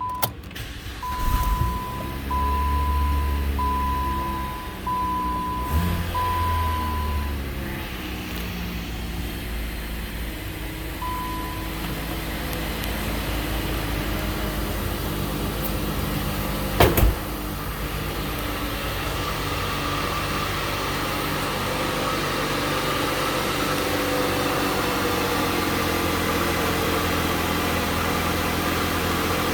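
A 2012 Chrysler 200's 2.4-litre four-cylinder engine starts, is revved up twice and then settles into a steady idle. A warning chime beeps about once a second over the first several seconds, and there is a single sharp knock about 17 seconds in.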